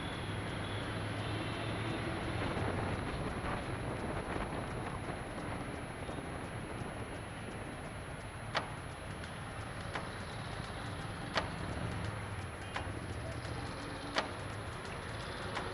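City traffic: a steady wash of road noise with vehicle engines running, a low engine hum in the first few seconds. In the second half, sharp clicks come at a regular pace, about one every second and a half.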